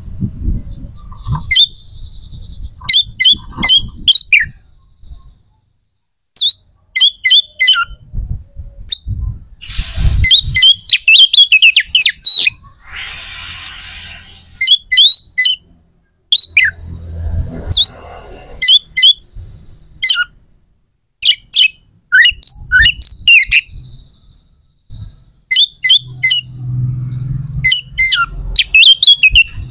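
A bird calling close by: loud, short chirps that each slide down in pitch, given in quick runs of several with brief pauses between, over a low rumbling noise.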